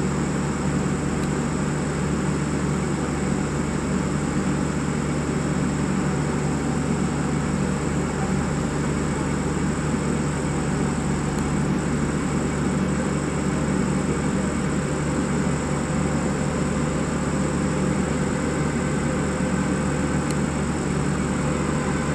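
Steady hum and rumble of a standing air-conditioned express train, with a thin high whine throughout and no build-up from an approaching train. Faint steady tones join in near the end.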